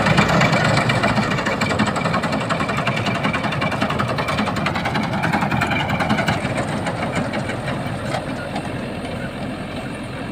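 Rice combine harvester's engine running steadily, gradually getting quieter over the second half.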